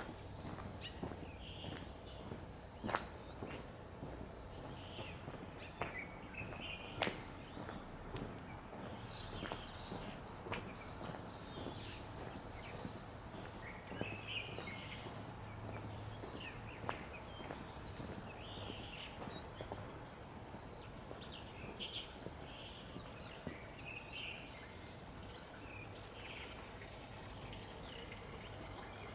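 Small birds chirping and calling over and over, short high notes scattered all through. A few sharp taps stand out, the loudest about three and seven seconds in, over a faint steady low hum.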